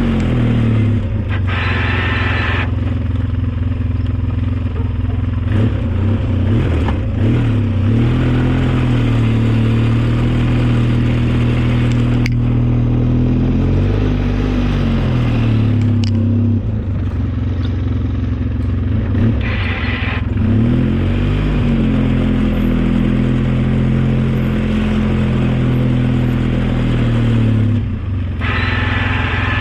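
Engine of an old snowplowing vehicle working through heavy snow, its pitch rising and falling again and again as it revs up and settles. Three times there is a brief burst of rushing noise over it.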